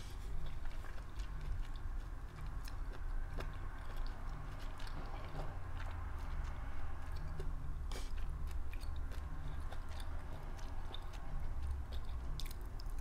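A person chewing lobster tail meat close to the microphone, with many small wet mouth clicks, over a low steady hum.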